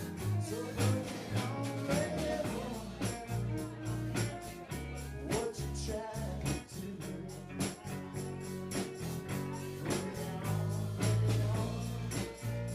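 Live band playing a funk song, with a bass line, a steady drum beat and some singing.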